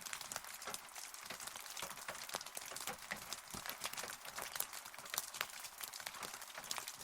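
Rain falling: a steady hiss with many sharp ticks of single drops striking a surface, without thunder.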